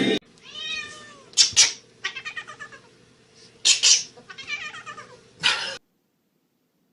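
Cat meowing and yowling: a drawn-out meow, then a few short, loud cries between runs of quick stuttering calls, cutting off suddenly near the end.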